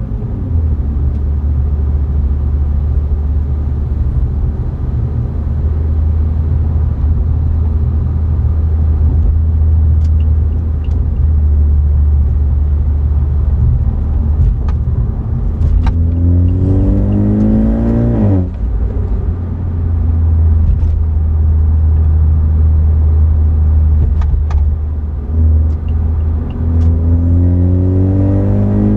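BMW 330i's B48 turbocharged 2.0-litre four-cylinder and its exhaust droning steadily at cruise. A little past halfway it accelerates, rising in pitch, then drops off abruptly at a shift or lift-off, and it rises again near the end.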